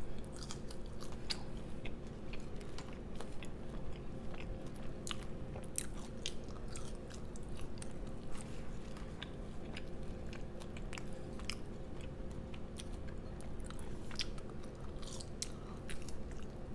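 Close-miked eating: chewing and biting with many small, sharp, crunchy clicks scattered through, over a steady low electrical hum.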